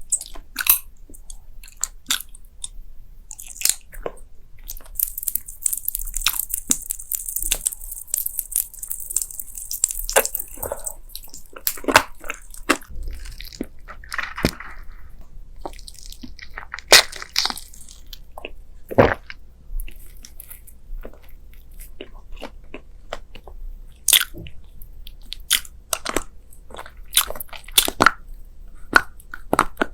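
Close-miked biting and chewing of crunchy food, with irregular sharp crunches. A steady high hiss runs for several seconds about a fifth of the way in.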